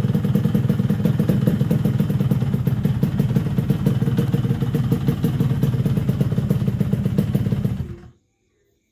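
Yamaha RX-King two-stroke single-cylinder engine running at a steady speed through an aftermarket bamboo-style racing exhaust, with a rapid pulsing beat. It cuts off suddenly about eight seconds in.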